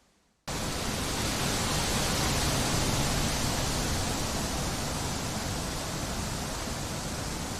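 Steady rushing wind noise that cuts in suddenly about half a second in, after a moment of near silence, then holds fairly even with slight swells.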